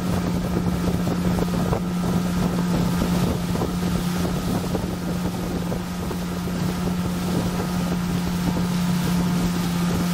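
A motor running steadily at an even pitch, with wind buffeting the microphone.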